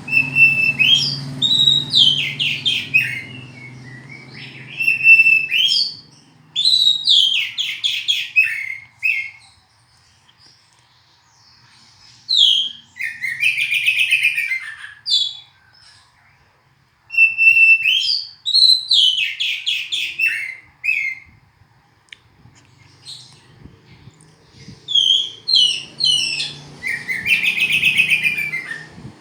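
Oriental magpie-robin (kacer) singing, in about six phrases of a few seconds each, separated by short pauses. Each phrase mixes clear whistles with rapid trilled and buzzy notes. A faint low hum sits underneath at the start and again near the end.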